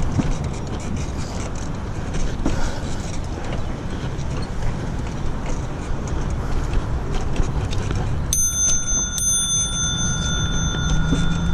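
Wind on the microphone and tyre rumble from a bicycle riding over a bumpy sidewalk. About eight seconds in, a steady high-pitched ringing tone starts suddenly and holds.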